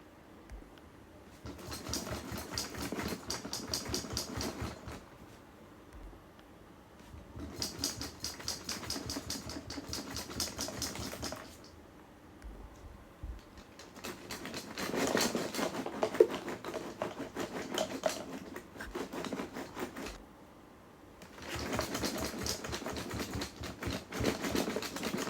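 Rapid mechanical rattling in four bursts of a few seconds each, with short pauses between; the third burst is the longest and loudest.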